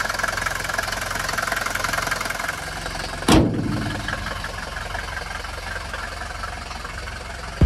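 Mercedes-Benz W123 200D's four-cylinder diesel idling cold after a winter lay-up, with its typical diesel clatter. About three seconds in there is a single loud thump, after which the clatter sounds duller.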